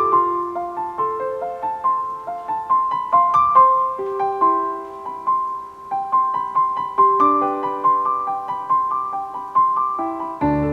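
Background music: gentle solo piano playing a flowing melody over held lower notes, with a deeper bass line joining near the end.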